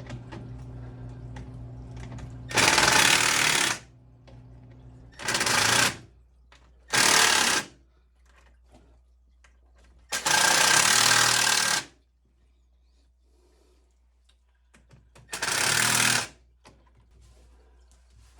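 Power drill driving the clamp nuts on a rubber pipe coupling tight, in five short bursts of one to two seconds each.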